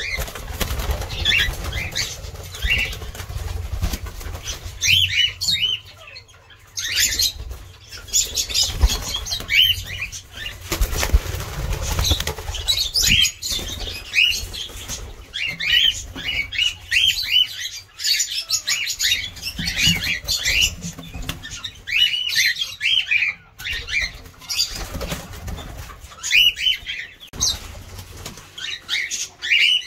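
A colony of small aviary birds chirping, with short, high calls coming in clusters, over a low rumble.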